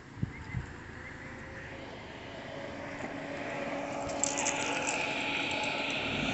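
A car engine running and growing louder from about halfway as the vehicle approaches, after two dull thumps near the start.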